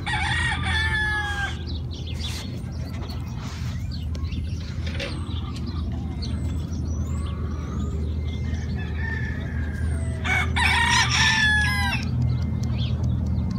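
A rooster crowing twice, each crow lasting about a second and a half, the second about ten seconds after the first. Faint small-bird chirps come in between, over a steady low hum.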